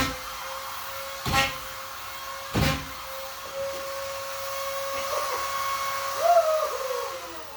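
Vacuum cleaner running with a steady whine, with three knocks about a second and a quarter apart in the first three seconds and a few short wavering squeaks near the end.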